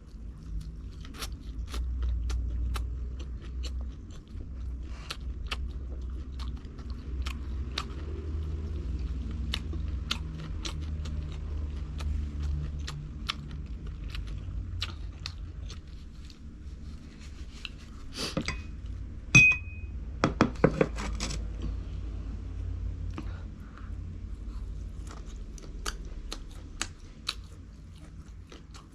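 Close-miked chewing and crunching of crunchy food, with many sharp crackly clicks over a low rumble. There is a short ringing clink and a few louder clicks about two-thirds of the way through.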